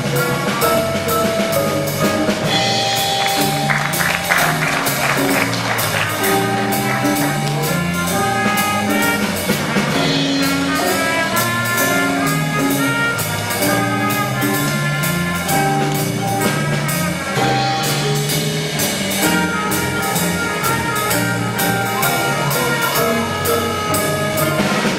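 A school band playing live, with wind and brass parts over a steady drum beat and a moving bass line.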